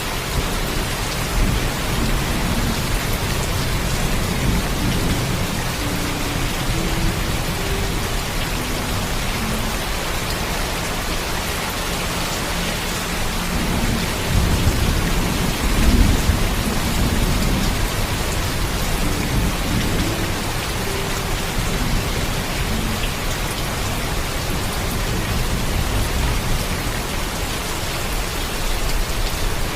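Steady heavy rain with rolling thunder rumbling low underneath, swelling about halfway through.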